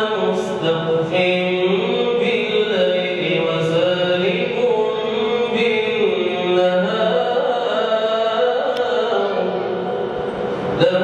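Male voice reciting the Quran in melodic tajweed style, one long chanted phrase with held, gliding notes, and a new phrase starting near the end.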